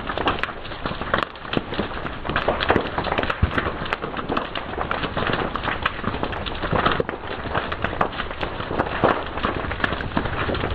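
Fire crackling, with dense, irregular pops and snaps over a steady hiss.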